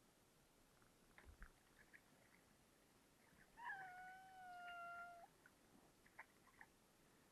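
A cat gives one long, drawn-out meow about halfway through, rising briefly at the start and then holding a level pitch. Faint small clicks come before and after it.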